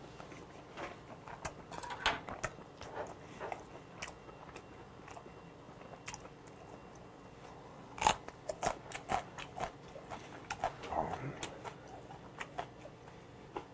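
Close-miked mouth sounds of a person chewing boiled monkfish: soft, wet, irregular chewing clicks. About eight seconds in comes a louder run of crisp bites and chews.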